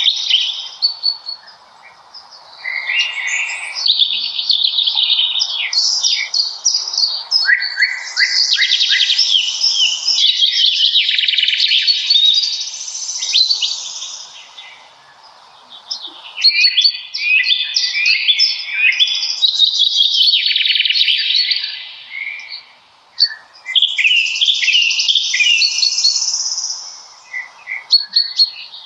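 Songbirds singing in a spring birch forest: long, rapid, varied phrases of high chirps and trills, broken by a few short lulls.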